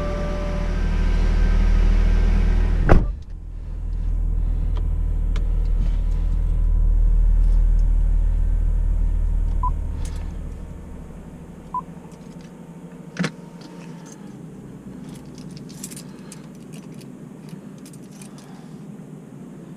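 Subaru Legacy 3.6R's flat-six engine idling with a steady low rumble, a car chime beeping in the first second. A sharp knock comes about three seconds in. The engine sound fades down after about ten seconds, leaving a quieter background with a few clicks.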